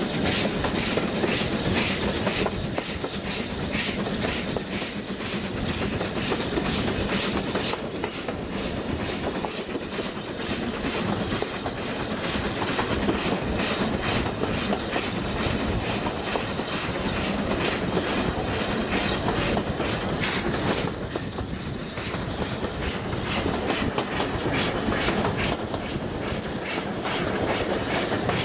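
A steam-hauled train's carriages running along the line, wheels clattering rhythmically over the rail joints with a steady rushing noise, heard from an open carriage window.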